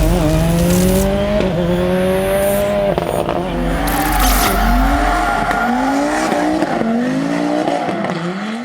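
Rally car engine driven hard, its revs climbing and dropping back again and again as it shifts gear and lifts for corners, with tyre noise underneath; the sound fades out near the end.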